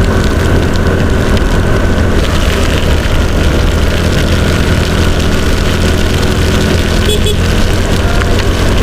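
Motorcycle engine running at a steady speed while riding, under a loud rush of wind on the microphone.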